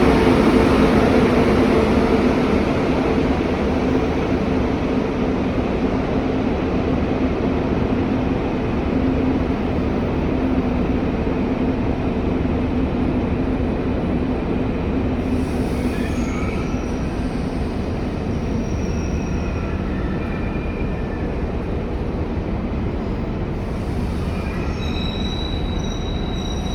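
ICE 1 high-speed train rolling through the station, loudest at first and then settling to a steady rumble. From about two-thirds of the way through, short high-pitched wheel squeals come in, and near the end a sustained high squeal.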